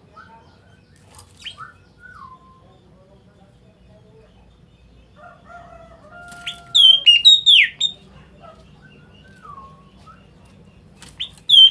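A black bird calling: a quick run of loud, sharp, high down-slurred whistles about seven seconds in and again at the very end, with softer, lower gliding whistles in between.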